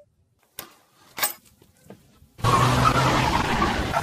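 A few faint clicks, then, about two and a half seconds in, loud car noise begins suddenly: a vehicle running close by, with heavy road and tyre rush and a steady low hum.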